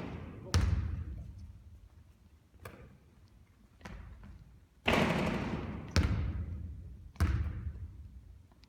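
Basketball shooting: a series of sharp thuds and bangs from the ball striking the hoop and bouncing on a hard court, each ringing on with a long echo. There is a loud one about half a second in, fainter ones around 3 and 4 seconds, and three loud ones in quick succession from about 5 to 7 seconds.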